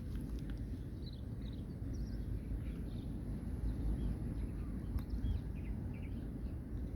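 Outdoor ambience: small birds chirping in short, scattered calls over a steady low rumble, with one sharp click about five seconds in.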